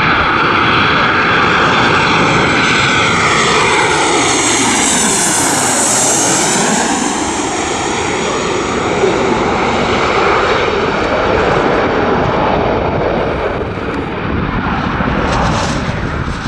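Fixed-wing aircraft engines as an airplane passes close by, a loud steady roar with a sweeping, shifting tone that peaks in change about six seconds in.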